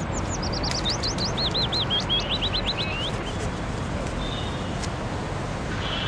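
A songbird sings one phrase of quick slurred notes that step down in pitch over about three seconds, over a steady background rumble of ambience.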